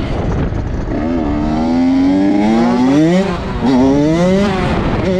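Dirt bike engine revving, its pitch climbing and dropping several times.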